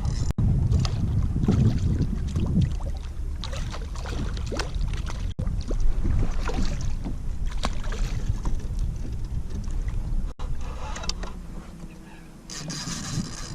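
Water splashing and sloshing around a kayak, with scattered knocks and a low rumble that is strongest in the first few seconds. The sound drops out abruptly three times, about five seconds apart.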